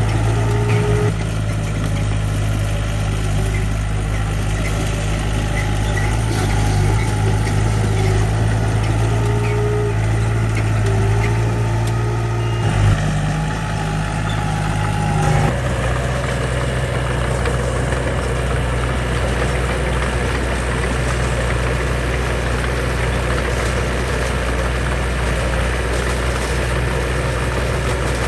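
Heavy diesel engine of construction machinery running steadily, its note shifting a few times: about a second in, near the middle and soon after.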